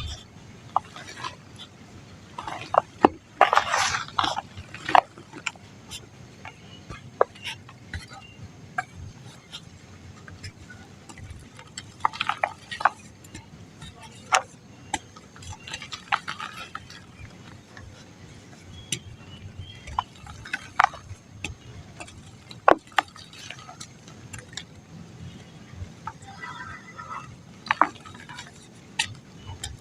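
Dry mud lumps being crumbled, giving irregular crisp crackles and crunches, with a denser run of crunching a few seconds in.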